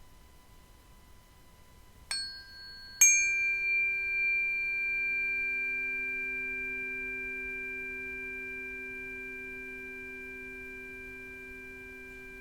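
A resonant metal percussion instrument struck twice, about a second apart. Each strike leaves clear, bell-like tones that ring on and fade slowly, over a faint ringing left from earlier strikes.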